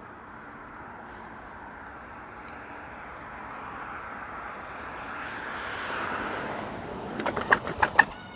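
A steady rushing noise that slowly grows louder, then a quick run of about six sharp knocks near the end.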